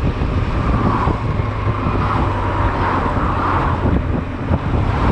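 Honda Silver Wing maxi-scooter on the move: heavy wind buffeting on the camera microphone over the running engine, with a higher hum swelling and fading around the middle.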